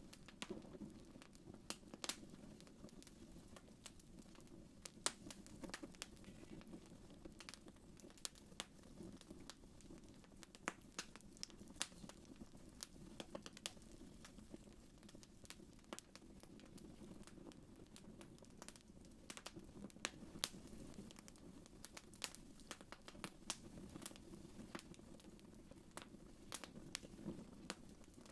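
Faint wood fire crackling: irregular sharp pops and snaps, a few every second, over a low steady rumble of the burning fire.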